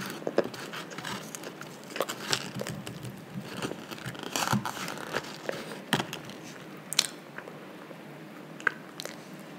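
A child chewing a soft, iced mini donut close to the microphone: wet mouth clicks and smacks, scattered and irregular, a few sharper than the rest.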